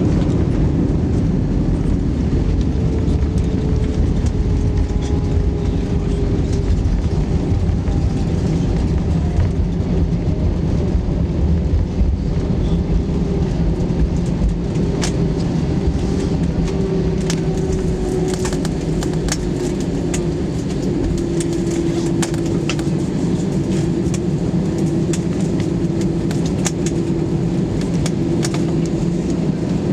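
Airbus A320 cabin noise after landing: a steady rumble of the airliner rolling along the runway, with an engine whine that falls slowly in pitch as the engines wind down. Light rattles click now and then in the second half.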